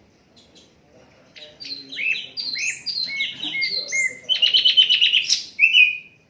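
A sikatan londo flycatcher singing: after a quiet first second, a run of short, sweeping whistled chirps, then a fast trill about four seconds in, ending on one last note.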